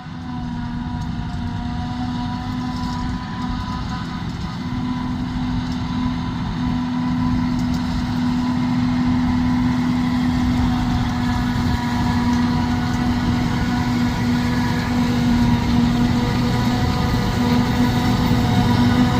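Heavy farm machinery engine running steadily at working revs, with a held tone that does not change pitch, growing gradually louder as the machine comes closer.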